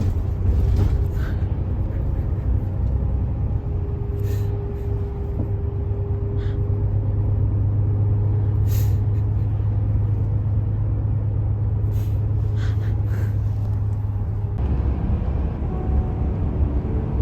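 Steady low road and engine rumble of a moving car, heard from inside the cabin, with a few faint clicks.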